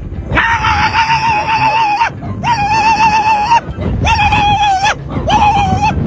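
Dog howling in about five long, wavering, steady-pitched calls with short breaks between them.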